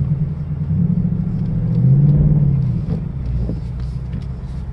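2018 Ford Mustang GT's 5.0-litre V8 running under light throttle while the car climbs a snow-covered hill. The low engine hum swells about two seconds in, then eases back.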